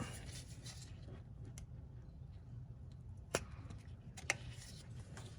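Two sharp clicks about a second apart past the middle, with a few fainter ticks, over a low steady hum: the sensor's clip being pressed in the middle and pushed up to release it.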